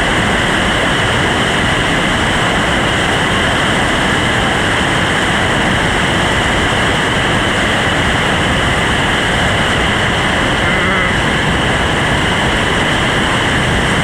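Steady loud rushing of whitewater rapids on a river running high.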